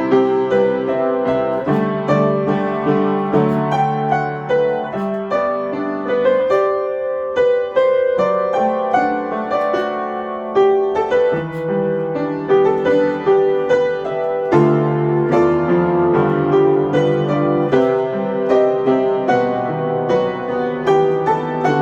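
Solo piano playing a lyrical melody over chords, with notes struck in a steady flow.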